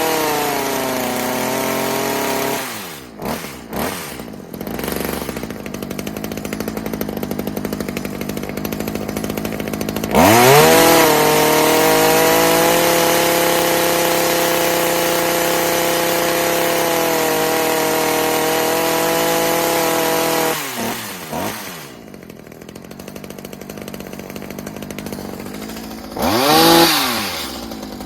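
Stihl HS45 hedge trimmer's small two-stroke engine, running on its freshly rebuilt carburetor. It runs at high revs, drops to idle, then revs quickly up to full throttle and holds steady for about ten seconds before falling back to idle, with one short rev blip near the end.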